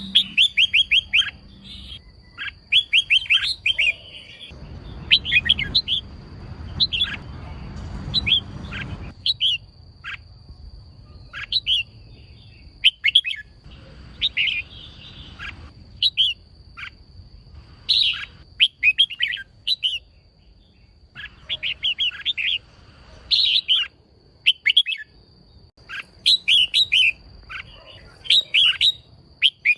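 Female red-whiskered bulbul calling in short bursts of rapid, high chirps, with pauses between the bursts.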